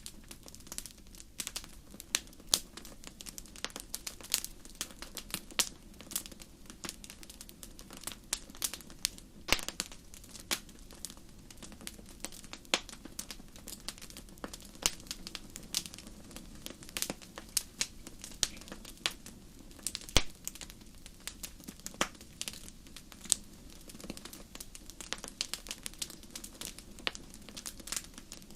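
Wood fire crackling in a fireplace: dense, irregular pops and snaps, some sharper and louder than others, over a steady low rumble of the flames.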